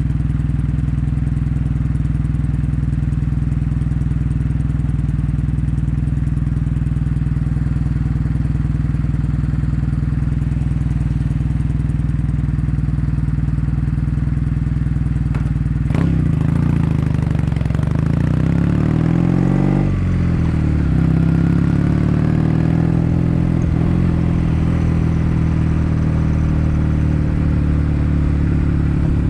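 Kawasaki W800's air-cooled parallel-twin engine breathing through Yamato stainless-steel Cabton-style silencers, running at a steady low pitch for about half the time. Then a sharp click, and the pitch rises as the bike pulls away. It drops suddenly near two-thirds of the way in, like a gear change, and the engine runs on a little louder.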